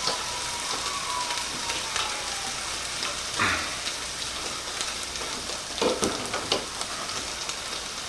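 Venison burger patties frying in a pan, a steady sizzle with fine crackles. Two short knocks stand out, one near the middle and one later.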